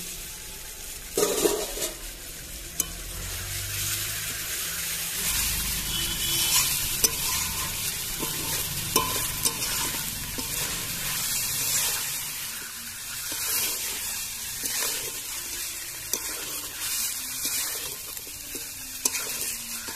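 Chicken pieces in coriander paste sizzling in a karahi while being sautéed (kosha), stirred and scraped with a metal spatula that scrapes and knocks against the pan again and again. A louder metal clank comes about a second in.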